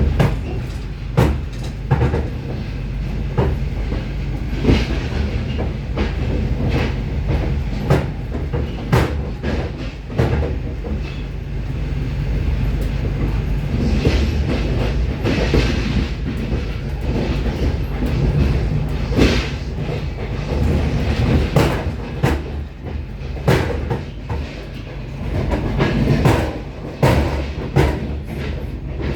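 Passenger train running, heard from inside the carriage: a steady low rumble with frequent irregular knocks and clacks from the wheels and running gear.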